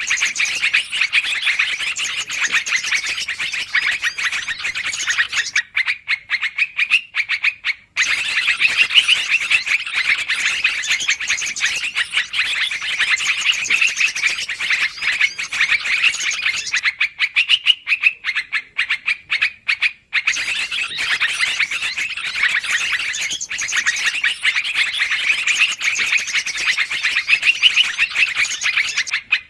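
Yellow-vented bulbuls (trucukan) chattering noisily in a bird-trapping lure recording: dense, overlapping bubbly chirps that thin out twice for a couple of seconds before picking up again.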